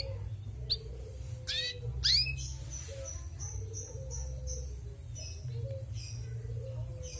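Female domestic canary chirping: a few sweeping chirps, then a quick run of short high notes, then scattered single notes. A low steady hum sounds underneath.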